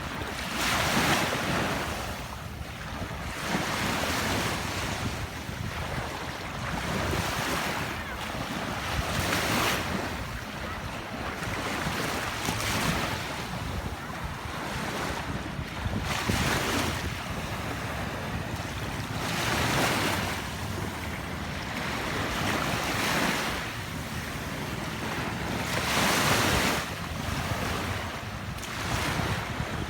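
Waves washing onto a beach, swelling and breaking about every three seconds, with wind buffeting the microphone.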